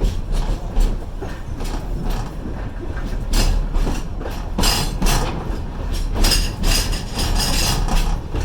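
Passenger train running, heard from inside a car: a steady low rumble with repeated clattering and clinking, busier from about three seconds in. The clinking sounds like dinner plates to a rider.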